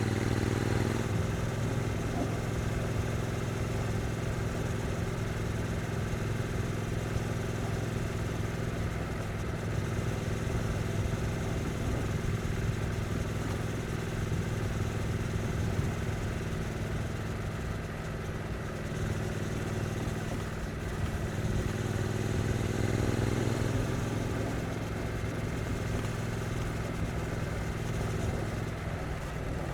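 2022 Triumph Street Twin's stock 900 cc parallel-twin engine running at low, steady revs on light throttle, with a gentle rise and fall in revs about two-thirds of the way through and revs climbing again at the very end.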